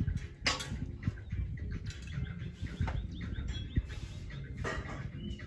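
Birds chirping in short, quick high calls, mostly in the middle of the stretch, with a few sharp knocks and bumps mixed in.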